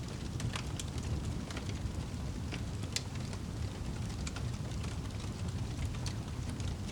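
Wood fire burning in a fireplace: a steady low rumble of the flames with irregular sharp crackles and pops, the loudest pop about three seconds in.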